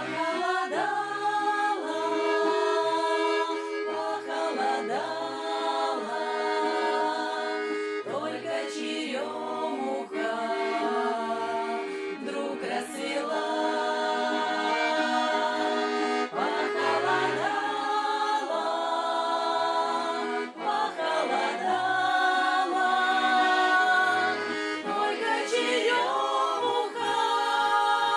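Accordion playing an instrumental passage of a Russian folk-style song, with held chords and a regular bass beat between the sung verses.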